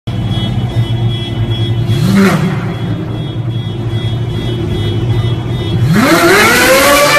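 Car engine idling, blipped briefly about two seconds in, then revved up near the end, its pitch climbing steeply and holding high.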